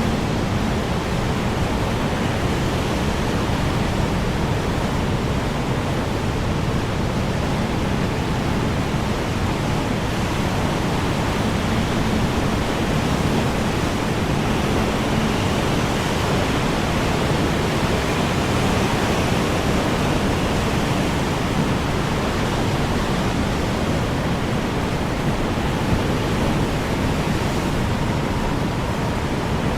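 Strong wind blowing steadily: a constant, even rushing noise with no gusts or breaks.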